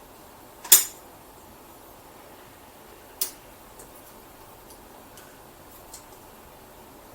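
Sharp clicks of hard plastic and metal parts being handled while a ceiling light fitting is taken apart: a loud one about a second in, a weaker one about three seconds in, then a few faint ticks.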